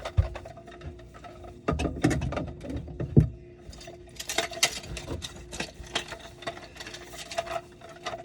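Irregular clicking, rattling and knocking of hand work on kitchen drain piping, with a sharp knock about three seconds in, over a faint steady hum.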